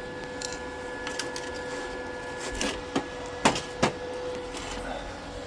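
A steady machine hum with a few sharp clicks and knocks of handling scattered through the middle, the loudest two about halfway.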